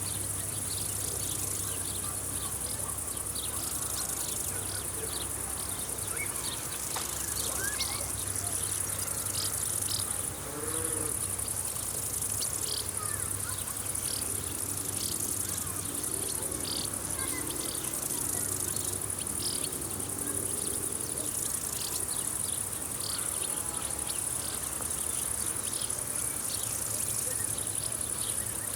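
Steady, high-pitched chorus of insects in a summer field, with many short chirps repeating irregularly over it.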